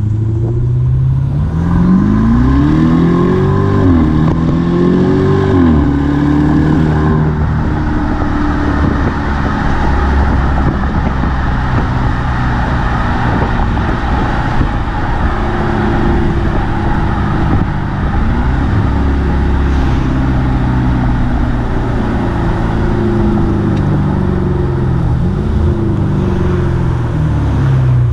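BMW 750i V8 with its muffler deleted, heard while driving. Its note climbs twice in the first few seconds, dropping sharply at each upshift, then settles into a steadier cruise with gentle rises and falls in pitch.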